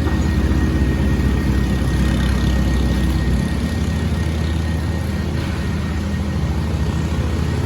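An engine running steadily with a low, even, rapid throb; the low hum shifts slightly about three and a half seconds in.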